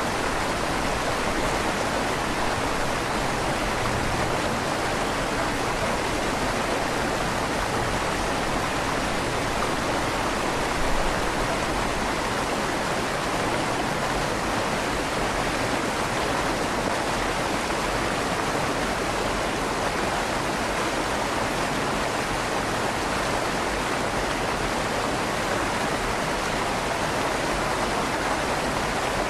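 A river flowing steadily through the stone tunnel under a bridge, a constant rushing of water with a slight echo off the tunnel walls.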